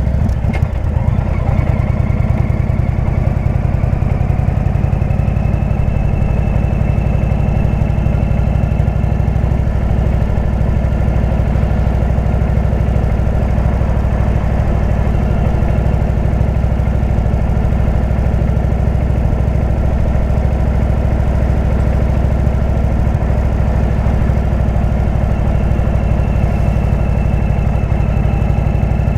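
Indian motorcycle's V-twin engine running steadily through a Jekill & Hyde exhaust.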